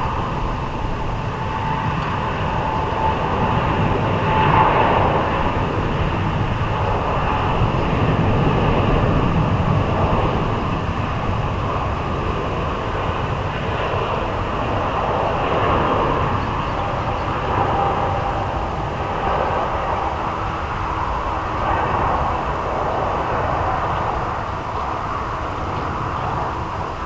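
Airbus A350's Rolls-Royce Trent XWB jet engines running as the airliner departs, a steady rumble and roar that eases slightly near the end.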